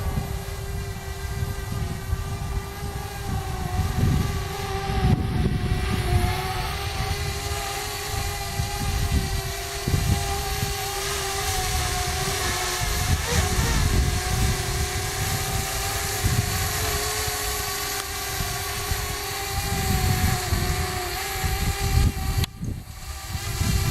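A Parrot Bebop quadcopter's propellers whine steadily in flight, the pitch wavering slightly, over an uneven low rumble. The sound dips briefly near the end.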